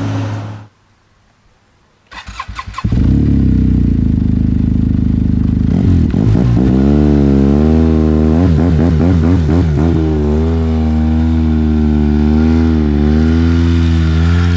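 Arctic Cat F1100 turbo snowmobile's turbocharged four-stroke three-cylinder engine, breathing through a Speedwerx L2 lightweight muffler. It cranks briefly, catches and idles. For a few seconds it is blipped repeatedly on the throttle, then settles back to a steady idle.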